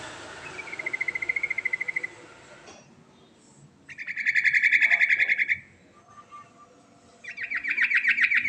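Yellow-vented bulbul (trucuk) singing: three rapid, rattling trill phrases a few seconds apart, the middle one the loudest. The first trill comes over a hiss that stops a little under three seconds in.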